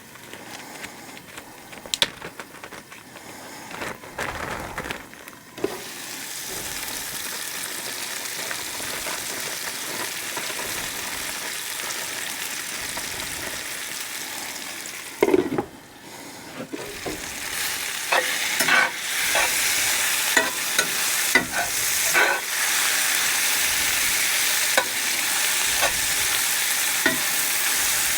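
Vegetables sizzling in a cast iron skillet on a Coleman camp stove, with scattered clicks and scrapes of stirring. The sizzle steadies after a few seconds, and after a sharp knock about halfway through it grows louder, with more frequent clicks.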